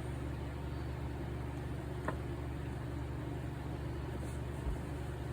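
A steady low mechanical hum with a faint hiss above it, and a single faint click about two seconds in.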